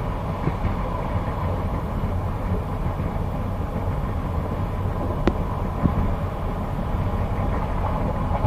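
Passenger train running along the line, heard from inside the carriage: a steady rumble of wheels on the rails, with two sharp clicks a little past the middle.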